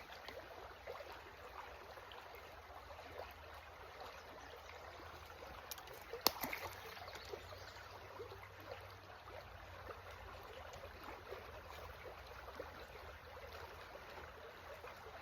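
Faint, steady trickle of creek water, with one sharp click about six seconds in.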